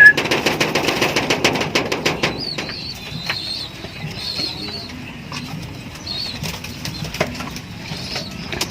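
Racing pigeons flapping their wings in the loft, a fast, dense flutter for about the first two seconds, then lighter, scattered wing flutters with faint high chirps.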